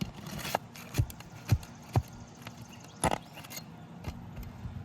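Flat pry bar working a roofing nail out from under an asphalt shingle: a series of sharp metal knocks about half a second apart, each with a brief low ring, the loudest about one and a half seconds in.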